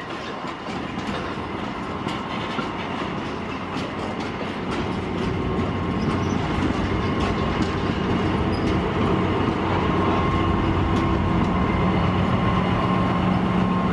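A train of bogie hopper wagons rolling past, wheels clicking over the rail joints. From about halfway the steady engine note of a DR V100 (class 201/202) diesel-hydraulic locomotive grows louder as it draws level.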